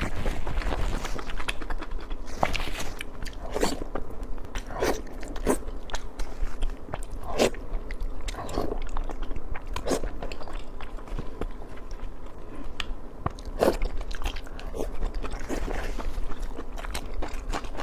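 Close-miked chewing and biting of sweet pork in spicy sauce, with wet smacking and crunching sounds repeating every second or so.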